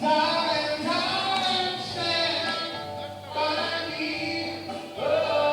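Music with singing voices holding long notes, the phrases breaking off briefly about three seconds in and again near the end.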